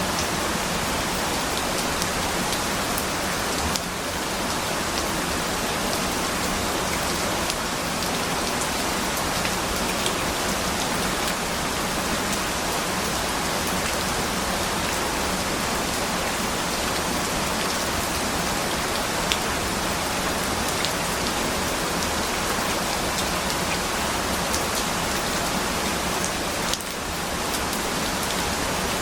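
Steady rain falling, an even hiss with scattered sharp drop ticks, dipping briefly about four seconds in and again near the end.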